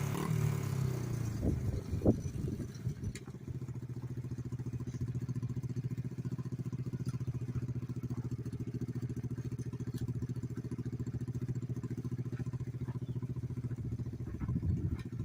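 Pit bike's small single-cylinder engine dropping off the throttle and settling into a steady idle with an even, quick pulsing beat. There is a sharp knock about two seconds in, and the engine revs up again right at the end.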